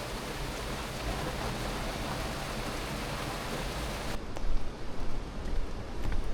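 Steady rush of falling water. About four seconds in it cuts abruptly to a rougher, less hissy water noise.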